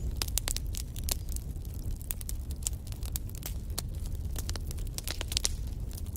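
Wood fire burning in a fireplace: a steady low rumble of flames with irregular crackles and pops from the burning logs, several a second.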